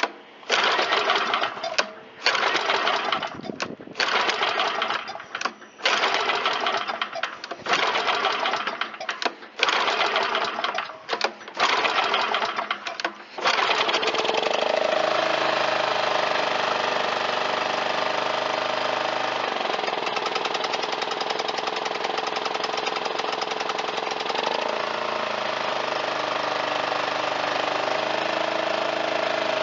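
Kawasaki FJ180V single-cylinder mower engine being pull-started on its recoil starter with the choke off: a series of pulls about every one and a half to two seconds, then a little under halfway through it catches and keeps running steadily. Its pitch shifts twice while it runs, and it settles into a running engine, a sign that the cleaned carburetor is feeding fuel.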